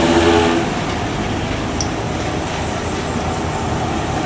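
Heavy truck engine and road noise running steadily. A short, steady pitched tone sounds briefly at the very start.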